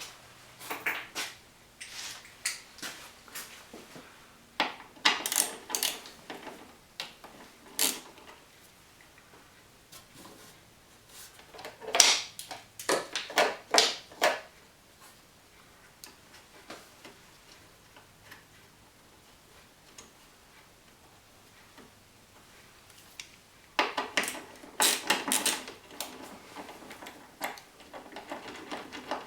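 Metal tools and parts clinking and clicking in short bursts of clatter, as the 10 mm bolts and flat washers are taken off the wiper linkage, with a quiet stretch in the middle.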